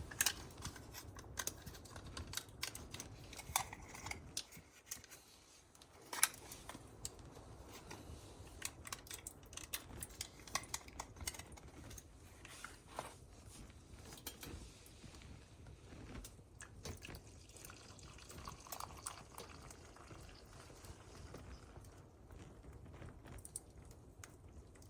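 Coffee being poured and made up in a mug: liquid pouring and dripping, with scattered small clinks and knocks of the pot, mug and creamer cups.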